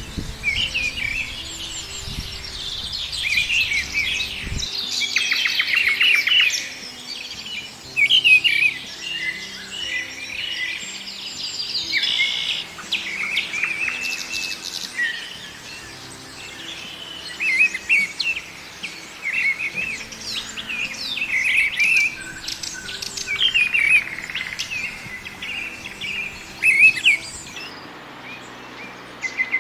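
Several small birds chirping and singing at once, with overlapping short calls and quick trills.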